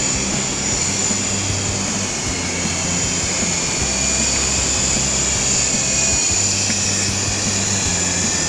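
Syma S033G coaxial RC helicopter in flight, its electric motors and rotors giving a steady high-pitched whine, over background music.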